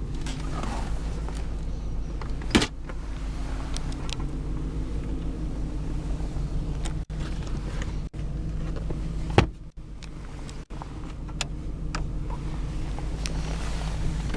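The 1995 Ford Thunderbird's 4.6-litre V8 idles steadily, heard from inside the cabin. Several sharp clicks and knocks come over it, the loudest about nine seconds in.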